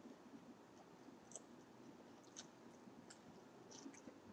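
Faint chewing of a mouthful of egg roll, with a few scattered soft mouth clicks over quiet room tone.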